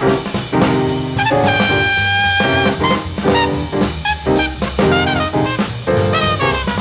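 Bebop jazz sextet playing live: one horn runs a fast melodic line, holding one note for about a second, over piano, bass and drums.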